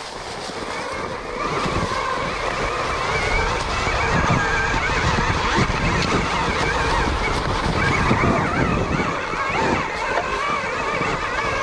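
KTM Freeride E-XC electric dirt bike being ridden on a woods trail: the electric motor's whine rises and falls in pitch with the throttle over a steady rush of wind and ground noise.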